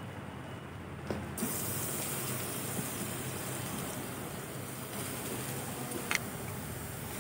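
Grated carrot sizzling in hot fat with whole spices in a non-stick wok. The sizzle turns suddenly louder and brighter about a second and a half in, and a single sharp click comes near the end.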